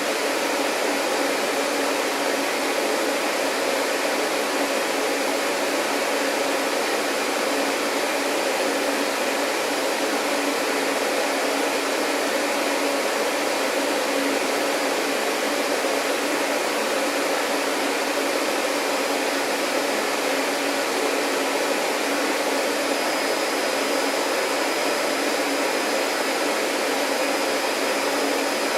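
Vacuum cleaner running steadily: a constant rushing hiss over a motor hum. A faint high whine joins in about two-thirds of the way through.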